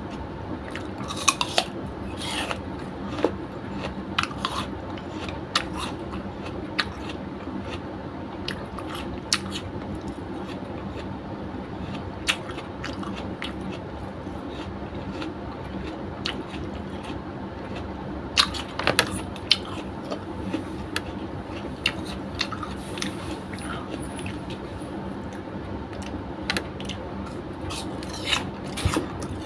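Close-up eating sounds: chewing and biting into crisp apple slices, with many short sharp clicks and crunches scattered throughout and a few louder clusters, over a steady low hum.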